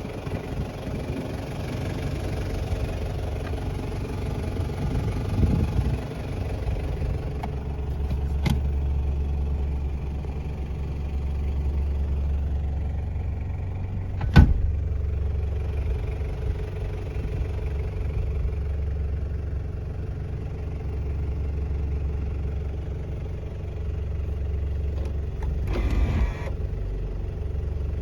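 Toyota Hilux Surf KZN185's 1KZ-TE 3.0-litre four-cylinder turbo diesel idling steadily. A light click comes about 8 seconds in and a sharp knock about halfway through.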